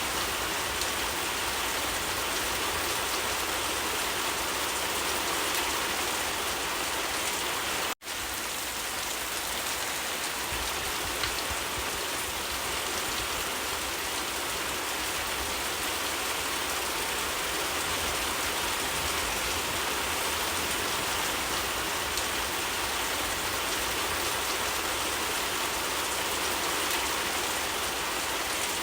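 Steady rain, an even dense hiss of drops falling on surfaces. It cuts out for an instant about eight seconds in.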